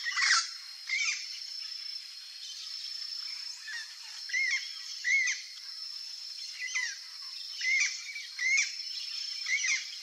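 Birds chirping: short rising-and-falling chirps about once a second, over a steady high-pitched tone.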